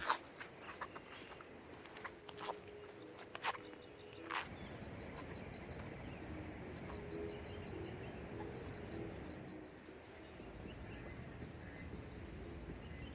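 Insects chirping: a steady high-pitched trill runs throughout, with short trains of quick repeated chirps. A few light clicks and knocks come in the first four seconds or so.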